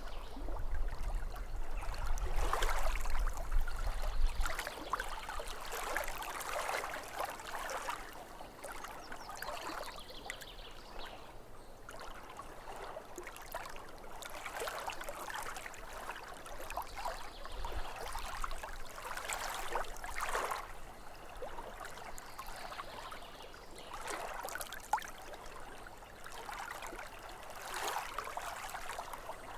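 Small waves lapping at a lake shore, the splashing swelling and falling every few seconds.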